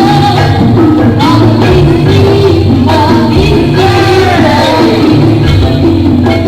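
Live jaranan music from a Javanese gamelan-style ensemble: a steady low drum pattern under layered instrument tones, with a melody line that bends up and down in pitch.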